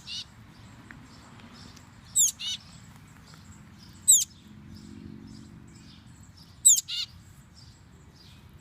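Baby bird cheeping: loud, sharp calls that sweep down in pitch, several of them doubled, about every two seconds, with fainter chirps in between.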